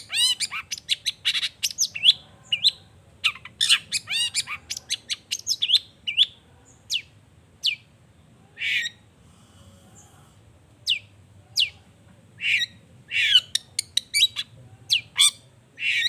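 Long-tailed shrike (cendet) in full song: rapid runs of sharp, varied notes and harsh squawks, many sweeping down in pitch, broken by a short pause near the middle.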